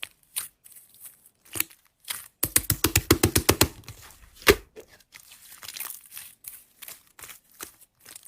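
Slime being played with by hand, squished and poked, giving scattered crackling and popping clicks. A fast run of clicks comes about two and a half seconds in, and a single loud pop comes around four and a half seconds.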